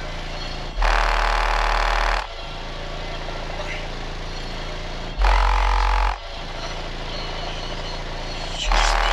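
A car audio system playing loud bursts of deep bass three times, each lasting a second or so and cutting on and off abruptly, over a steady background of voices.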